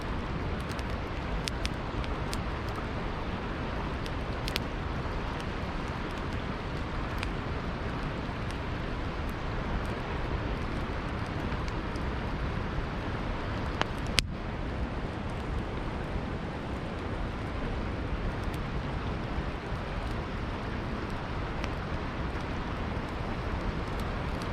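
Campfire crackling with scattered sharp pops, mostly in the first half and one loud crack about fourteen seconds in, over the steady rush of a flowing river.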